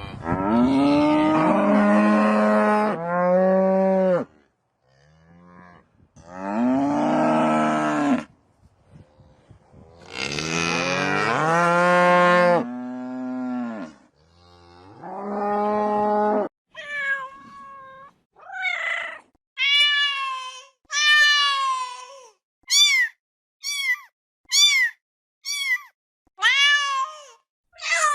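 A cow mooing, about five long, low calls, until roughly halfway through. Then a cat meowing over and over: a run of about ten high-pitched meows, getting shorter toward the end.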